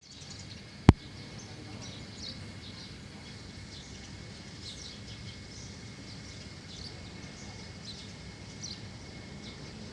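Birds chirping, many short calls scattered throughout over a steady outdoor background hum. One sharp click about a second in is the loudest sound.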